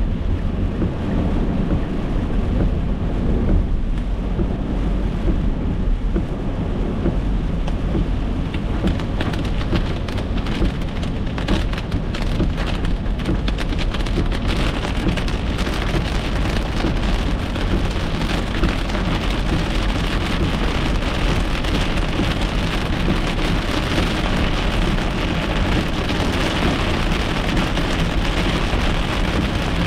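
Heavy rain pattering on a car's windshield and roof, heard from inside the cabin over a steady low rumble of tyres on a wet road. The rain grows heavier about halfway through.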